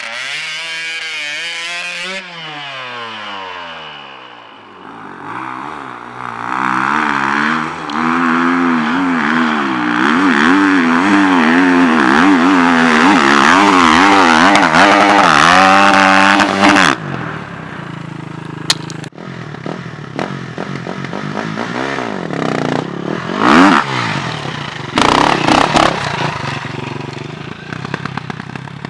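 KTM EXC 350 Sixdays dirt bike's single-cylinder four-stroke engine, through an Akrapovic exhaust, revving hard at full throttle with its pitch wavering up and down. It is loudest for about ten seconds in the middle, then drops back, with another burst of revs near the end.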